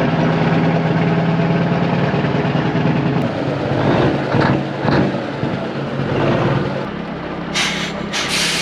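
Kenworth W900A dump truck's diesel engine running steadily, swelling a little in the middle, with a couple of short hisses near the end.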